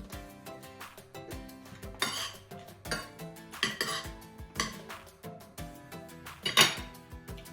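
Cutlery clinking and scraping against a dish several times while eating, the loudest clatter near the end, over background music with a steady beat.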